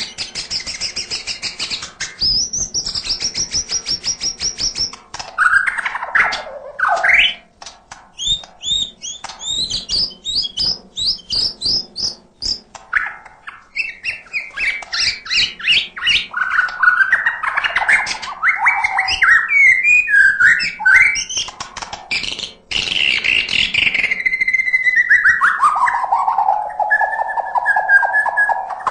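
White-rumped shama singing a long, varied song without pause: fast runs of repeated chattering notes, trills and clear whistles that glide up and down, ending in a long falling whistle that levels off.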